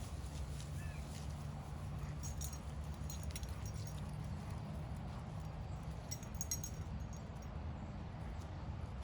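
Footsteps on a woodland path over a steady low rumble, with short bursts of light metallic jingling about two and a half, three, and six and a half seconds in.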